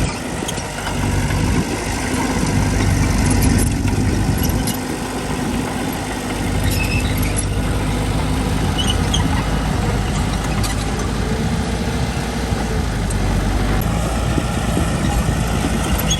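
Diesel engine of construction machinery running steadily, with scattered clanks and a few short high squeaks partway through.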